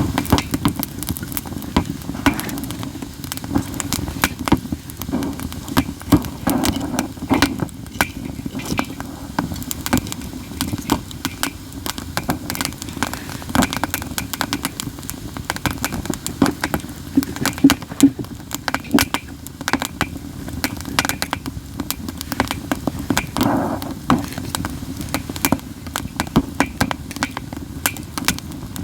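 Campfire of burning katsura wood crackling constantly, with frequent sharp, loud snaps and pops over a steady low rush.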